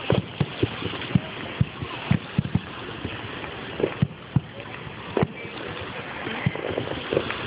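Fireworks going off: an irregular series of sharp bangs and pops, several a second, over a steady rushing background.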